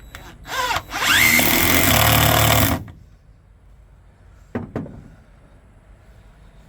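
Power drill drilling into the wood of a birdhouse: a short trigger blip, then about two seconds of running with its whine rising as the motor spins up, stopping sharply. Two light knocks follow a couple of seconds later.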